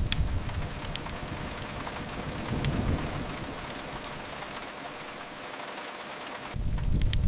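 Steady rain hiss with scattered sharp crackles and pops from a wood fire. A low rumble fades out in the first second, swells briefly around three seconds in, and starts again abruptly near the end.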